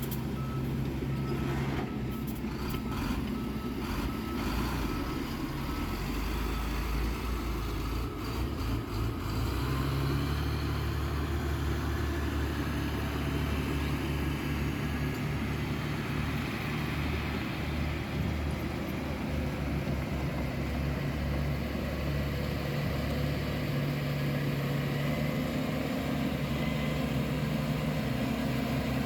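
Heavy diesel construction machine running steadily, its engine note shifting as it works, with a reversing alarm beeping over it in the first few seconds.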